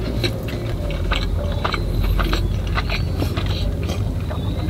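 Close-up mouth sounds of a person chewing a bite of burger, many short wet clicks and smacks in quick succession, over a steady low hum.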